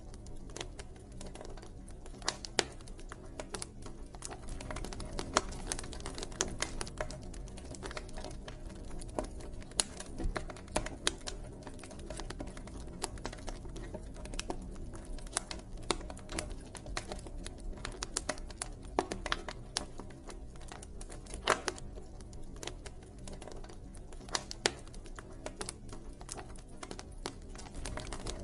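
Wood fire crackling and popping: irregular sharp snaps, a few louder ones, over the steady low rush of the burning fire.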